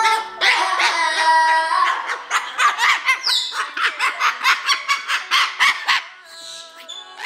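A parrot vocalising, first in a sing-song run of pitched notes, then in a rapid, rhythmic string of short squawking calls several a second, with a falling whistle just after three seconds. The calls grow quieter near the end.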